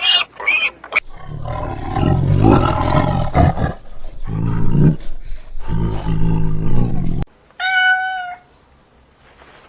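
Deep, loud animal calls in several long bursts, ending with one short, clear high-pitched call.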